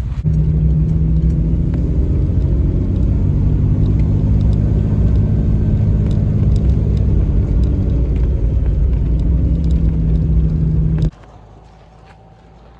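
Steady engine and road rumble of a truck driving, holding an even low pitch. It cuts off suddenly near the end, leaving only a faint background hum.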